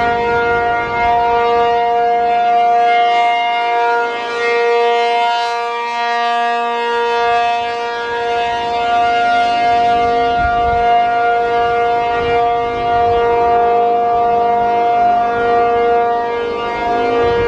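P-50 outdoor warning siren sounding at full speed, holding one steady pitch with loudness swelling and dipping slightly. In the cold its fiberglass flexes under the sound pressure and adds a purr to the tone.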